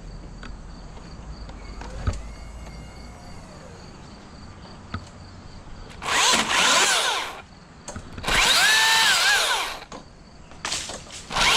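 Milwaukee M18 battery chainsaw spinning up in three short bursts, from about halfway in, as it cuts small pieces off a dead tree. Each burst has a whine that rises as the motor winds up, holds, and falls away when the trigger is let go.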